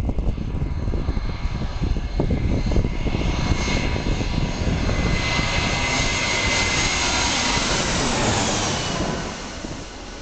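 Jet engines of an ANA Airbus A320 airliner passing close during a touch-and-go, a loud roar and whine that builds over several seconds and then drops off sharply about nine seconds in. Wind buffets the microphone.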